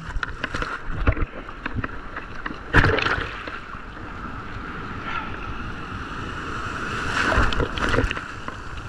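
Surf waves breaking and washing around a person wading waist deep, with water splashing and wind on the microphone. A wave hits hard about three seconds in, and another swells up near the end.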